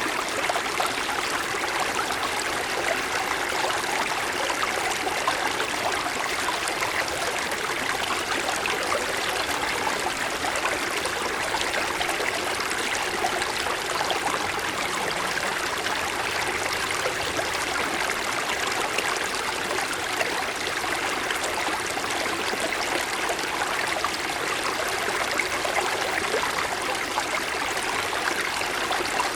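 A small mountain stream flowing over snow-covered stones: a steady, even rush and burble of water.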